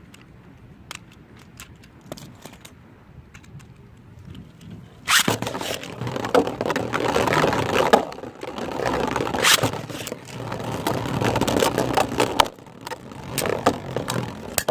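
Beyblade spinning tops launched about five seconds in, then spinning and scraping against each other in a plastic stadium, with repeated sharp clacks as they collide. One of the tops is a 3D-printed Beyblade.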